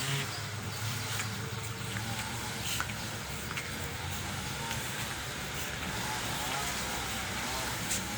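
Steady low engine-like hum, with a few faint clicks over it.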